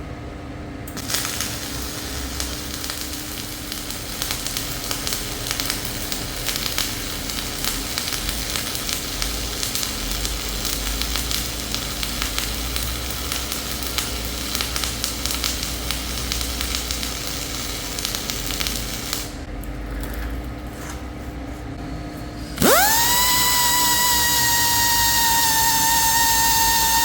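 Flux-cored MIG welding arc crackling steadily, stopping about 19 seconds in. Near the end a motor spins up quickly and holds a loud, steady high whine.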